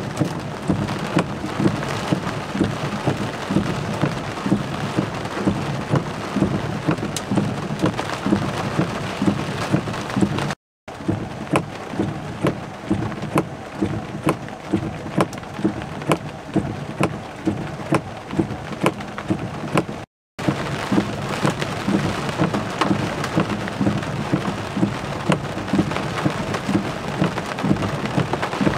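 Heavy thunderstorm rain pouring onto wet pavement: a steady downpour hiss with frequent sharp taps of drops striking close by. The sound drops out briefly twice, about ten and twenty seconds in.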